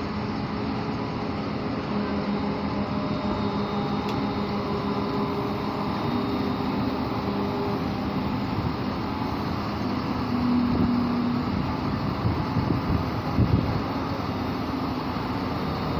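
Train running on standard-gauge track: a steady rumble with a low hum, and a quick run of louder knocks near the end.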